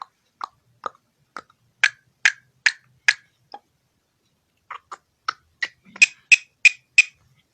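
A series of short, sharp clicks, about two to three a second, in two runs with a pause of about a second between them; the clicks near the end are the loudest.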